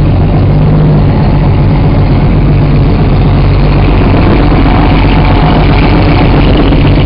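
A car engine idling close by, loud and steady, with a deep low rumble.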